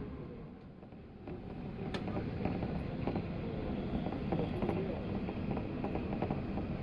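Running noise heard inside a 185 series train car: a low rumble from the wheels and track with scattered clicks and creaks from the car body. It dips briefly about a second in, then builds back up.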